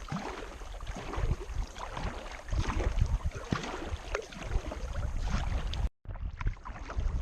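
Kayak paddle strokes splashing in the water, with wind buffeting the microphone as a low rumble. The sound drops out for an instant about six seconds in, then the paddling and wind resume.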